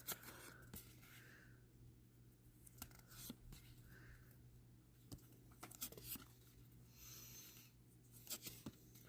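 Faint rustling and small clicks of Magic: The Gathering trading cards being handled and slid one behind another while flipping through a pack, with a brief, slightly louder swish about seven seconds in.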